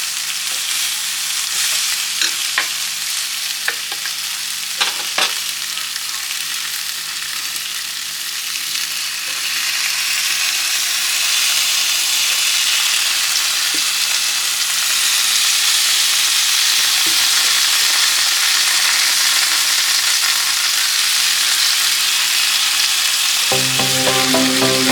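Beef ribs coated in barbecue sauce sizzling in a Ninja countertop grill, a steady hiss with a few light clicks in the first five seconds. The sizzle grows louder about ten seconds in.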